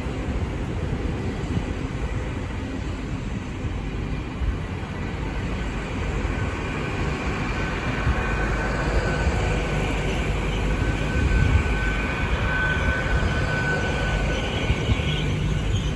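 Great Western Railway IET (Class 800) train moving at the platform: a steady low rumble, with a faint thin whine coming in over the second half as the sound grows a little louder.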